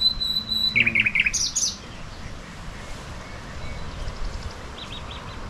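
Birds chirping: a steady high-pitched tone for the first second, then a quick run of chirps about a second in, and a few faint chirps near the end over a low outdoor hiss.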